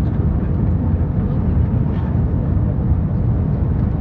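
Steady low rumble of an Airbus A321 airliner's cabin during descent: engine and airflow noise heard from inside the passenger cabin.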